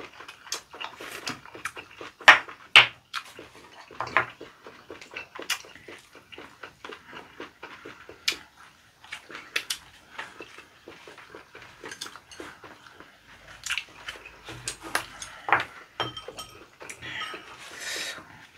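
Close-up eating sounds of leaf-wrapped rice (ssambap) being chewed: irregular wet crunches and mouth clicks. Near the end, a short rustle as leaves are handled.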